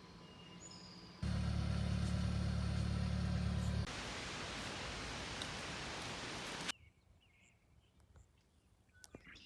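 Car running: a steady engine hum starting abruptly about a second in, then an even rushing noise of the car on the move. The rushing noise cuts off suddenly about two-thirds of the way through.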